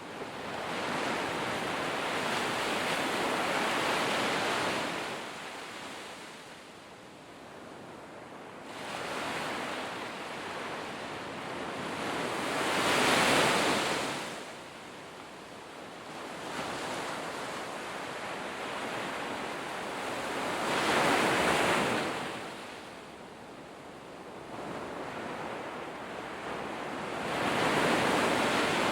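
Sea waves breaking on the shore, four surges that each swell and then fall back over several seconds.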